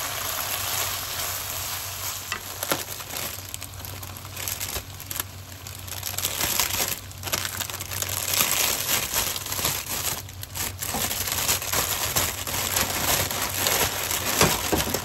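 Onions and sardines sizzling in hot oil in a pan, stirred with a wooden spatula that scrapes and clicks against the pan now and then. The sizzle eases off briefly twice.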